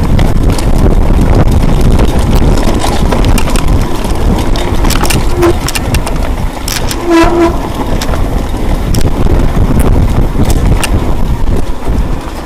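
Heavy wind buffeting the microphone while moving, with two short pitched toots about five and seven seconds in.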